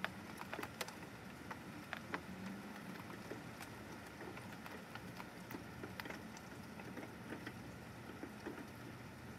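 Steady rain falling, a soft even hiss with scattered drops tapping close by, most of them in the first couple of seconds.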